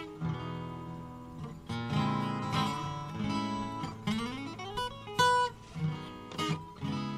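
Guitar played solo, mixing picked single notes and chords, with one note sliding upward in pitch about four seconds in.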